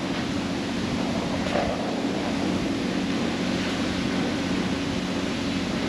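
Steady hum and hiss of self-serve car wash equipment running, a machine drone under a wash of spraying noise.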